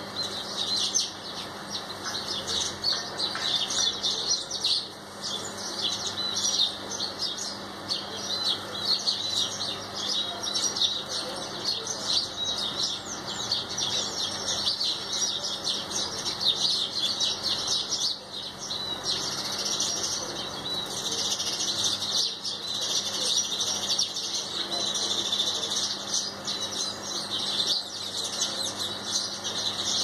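A flock of small birds at a bird bath chirping continuously, a dense chatter of short, high chirps overlapping one another, with the flutter of wings as they come and go and bathe.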